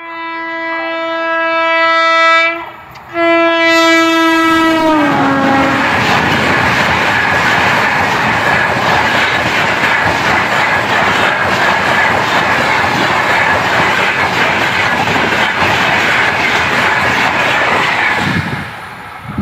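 Locomotive horn of an Indian Railways express sounding two long blasts, the second dropping in pitch as the locomotive passes at speed. Then the coaches go by with a steady rushing clatter of wheels on rails, which falls away near the end.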